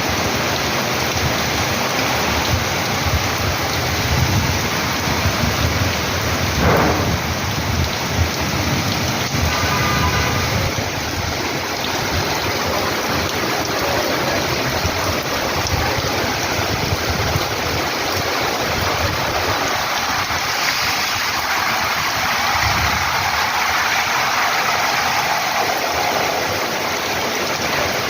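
Steady rain falling: a dense, even hiss with a low, uneven rumble underneath.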